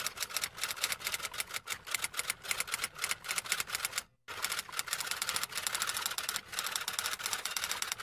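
Typewriter keys being typed rapidly, a quick, uneven run of sharp mechanical clacks that stops for a moment about four seconds in and then goes on.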